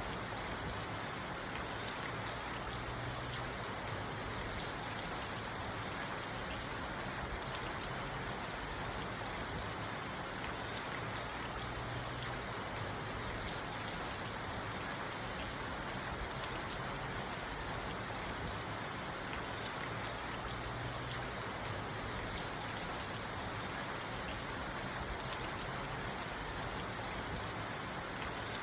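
Steady rain falling on a parked car, heard from inside the cabin, as an even hiss with faint scattered drop ticks.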